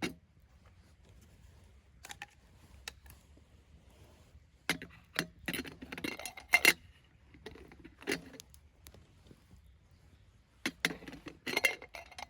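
Metal cookware and utensils clinking and knocking together in scattered bursts, some strikes ringing briefly.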